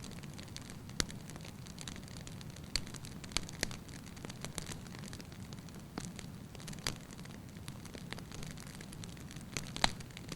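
Wood fire burning in a fireplace: a steady low rumble of flames with irregular sharp crackles and pops from the logs, the loudest about a second in, around seven seconds and just before the end.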